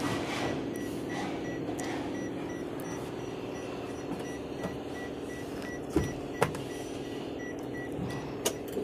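A steady mechanical hum with a few sharp clicks and knocks, the loudest about six seconds in.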